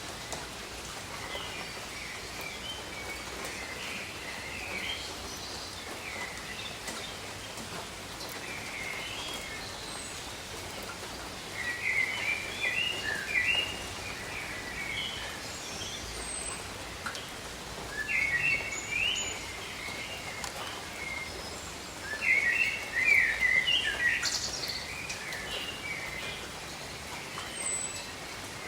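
Steady rain hiss over a tropical forest, with a songbird breaking in several times with short bursts of quick, jumbled chirping notes, the loudest in the second half.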